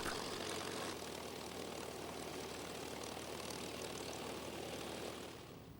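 Propeller aircraft's piston engine droning steadily, fading out near the end.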